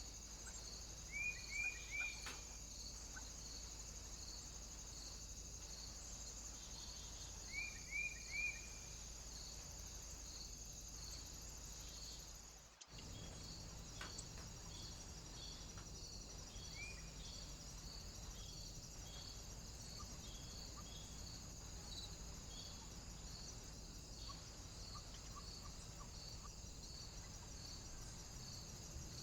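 A small bird gives a quick three-note call twice, near the start and about a third of the way in, over a steady run of high, insect-like chirps about twice a second and a constant high hiss.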